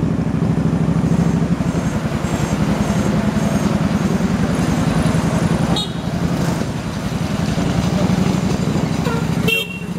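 Motorbike engine running while riding, with heavy wind buffeting on the microphone. Brief higher tones break through about six seconds in and again near the end.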